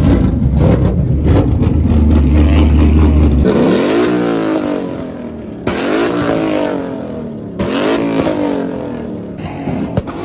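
Car engine held at high revs with a rapid train of crackling pops. About three and a half seconds in it launches and accelerates hard, its pitch climbing through three gears with shifts about two seconds apart.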